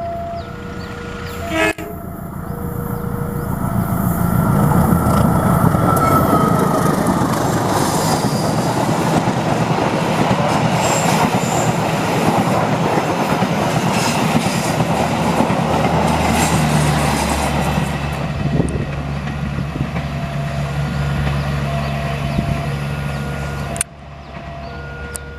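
A train passing over a level crossing, its wheels rumbling and clattering on the rails. The noise builds over a few seconds and stays loud for a long stretch, then cuts off suddenly near the end. The crossing's electronic alarm, two alternating tones, sounds at the start and can be heard again under the train toward the end.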